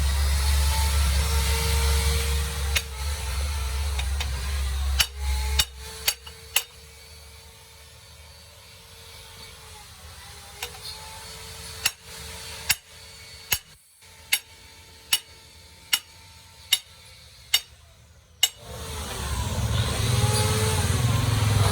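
A hammer striking metal in a regular run of single blows, about one every second. A machine hums steadily before the blows, cuts off sharply when they begin, and comes back near the end.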